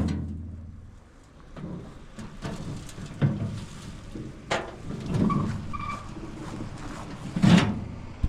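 A vehicle running, with scattered knocks and clatter; the loudest knock comes near the end.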